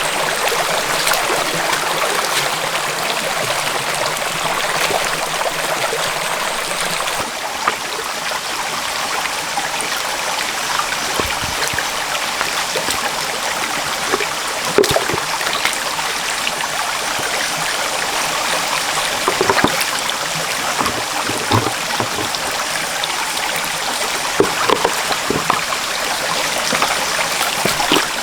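Stream water running steadily over rocks, with a few short knocks scattered through the second half.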